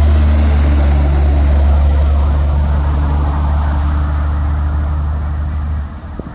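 Heavy truck passing close by: a steady low engine drone with tyre and road noise that drops away sharply about six seconds in.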